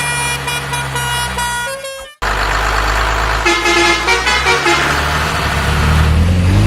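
Cartoon vehicle sound effects, a low engine hum and horn-like honks, mixed with pitched background notes. The sound cuts out abruptly about two seconds in, then resumes louder with a few short honks and a low engine rumble that swells near the end.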